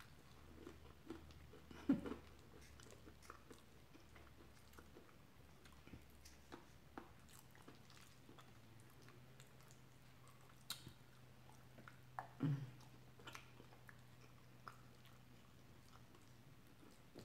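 Quiet close-miked chewing of soft curry and rice: faint wet mouth sounds with scattered small clicks, a few louder ones about two seconds in and again near the end.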